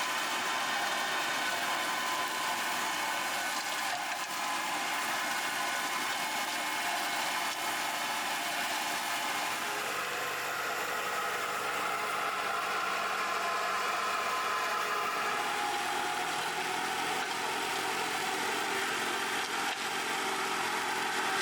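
Tractor engine running steadily, driving a flail mulcher, with a few held tones over a steady rushing noise that shift slightly about halfway through.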